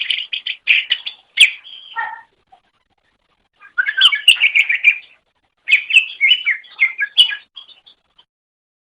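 Cucak ijo (greater green leafbird) singing: three bursts of rapid, varied chirps and warbles, each one to two seconds long, with short pauses between.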